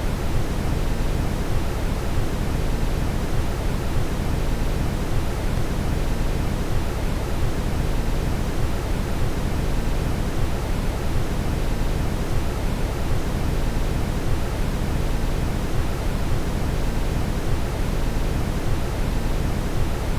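Brown noise: a steady, deep hiss, strongest in the low end and fading off toward the top, even and unchanging throughout.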